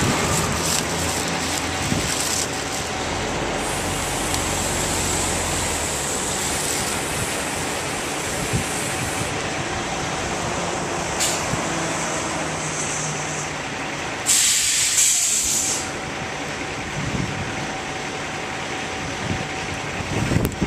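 Delivery truck's engine running steadily, with a loud burst of air hiss lasting about a second and a half just past the middle.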